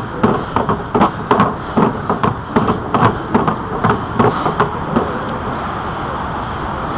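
Irregular knocks and rattles, several a second, for about five seconds, then only the steady rushing noise of a bicycle rolling along.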